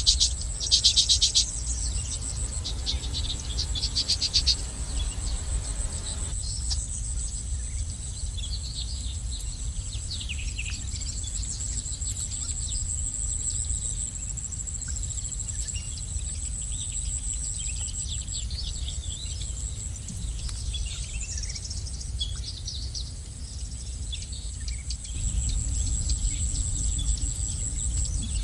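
Small birds chirping and trilling, with a loud rapid trill in the first second or so and then scattered short chirps, over a steady high-pitched insect drone and a low rumble.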